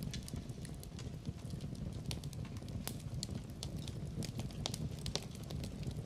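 Fire in a fireplace, crackling with irregular sharp pops over a steady low rumble of the flames. The louder pops come about two, three and five seconds in.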